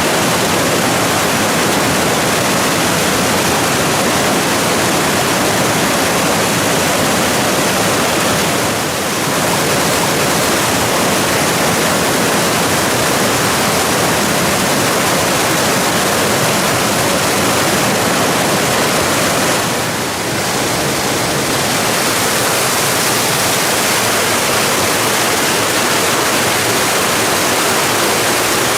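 Rushing water of a mountain waterfall and stream: a loud, steady roar, dipping briefly about 9 and 20 seconds in.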